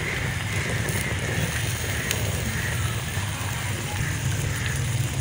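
Semolina cooking in ghee and sugar syrup in a kadhai: a steady sizzle over a low, even rumble.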